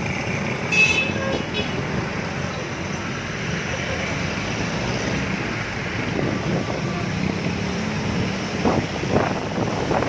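Yamaha Mio Soul i 115 scooter's single-cylinder four-stroke engine running steadily on the road, with its engine oil drained, with road and traffic noise around it. A brief high tone comes about a second in.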